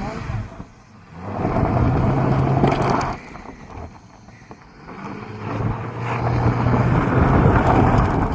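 Ford Thunderbird's engine run hard under throttle in two loud spells, about a second in and again from about five seconds, with a steady low drone and a rushing noise over it, as in an attempt to spin the tires.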